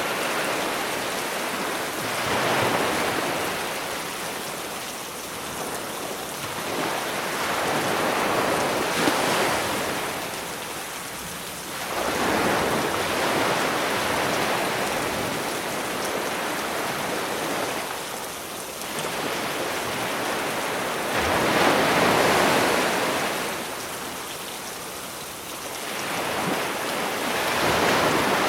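Sea waves washing onto a beach, swelling and falling back every few seconds, over a steady hiss of rain added from a sound library.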